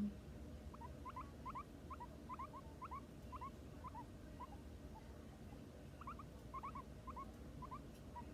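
Small pet animal giving short, soft squeaks, several a second at irregular spacing, each with a quick upward flick in pitch. They thin out around five seconds in and bunch up again about a second later.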